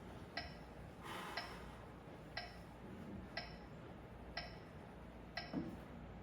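Metronome ticking steadily at about one click a second, with a soft breath about a second in.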